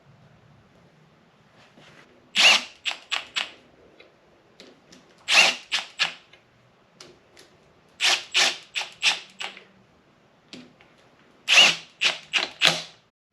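Sharp metallic clicks and taps in four quick clusters of three to six strikes each, from tools and parts being worked while valve covers are fitted to an LS 6.0 V8.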